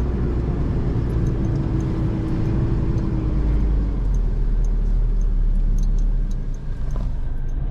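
A four-wheel-drive car's engine runs under load as it pushes through soft sand in two-wheel drive, nearly getting bogged. Its note sinks slowly over the first three or four seconds over a deep rumble, with light ticks in the second half.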